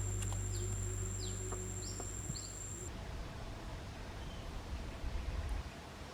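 Outdoor ambience: four short bird chirps in the first two seconds over a steady high insect buzz that stops about three seconds in, with a low rumble of wind or handling underneath.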